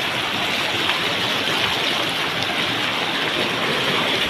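Floodwater rushing past in a steady, loud, unbroken torrent.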